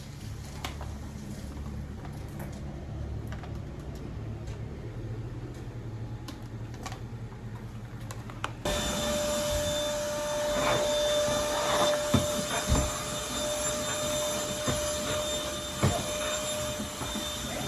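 A vacuum cleaner starts abruptly about halfway through and runs with a steady motor whine, with scattered knocks and rattles as it is worked over a car's interior. Before it starts there is only a low rumble with a few clicks.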